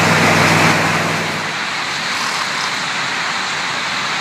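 Vehicle noise on a moving duck boat in city traffic: a steady engine drone that fades out about a second and a half in, leaving an even rush of road and traffic noise.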